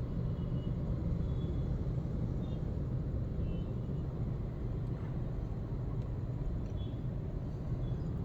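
Steady low rumble of a car being driven in traffic: engine and tyre noise.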